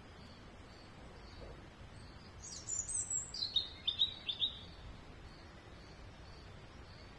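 A songbird sings one short phrase of quick, high notes that step down in pitch, lasting about two seconds. It comes over a faint, evenly repeated high chirp in the background.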